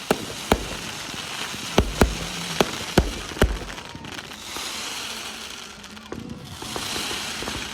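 Fireworks going off: a quick run of sharp bangs over the first few seconds, then a steady hissing crackle.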